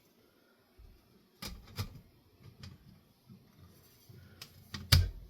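A few separate light clicks and knocks of ceiling fan parts being handled, the loudest one near the end.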